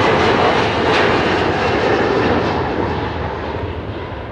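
Four-engine Boeing 747 jet engines at takeoff power: loud, steady jet noise that begins to fade about three seconds in as the aircraft draws away.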